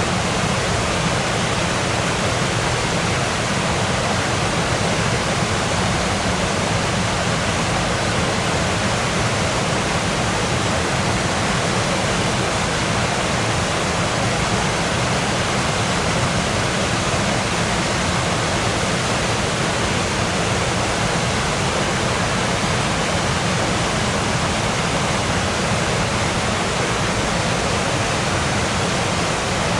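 A waterfall's falling water making a steady, even rush that covers low and high pitches alike, with no change in level.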